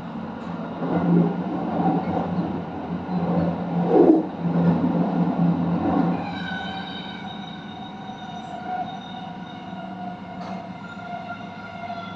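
Kintetsu electric limited express train running on the rails, heard from inside the car: rumble and wheel noise with a few louder swells, then from about six seconds in a steady whine from the train's traction equipment.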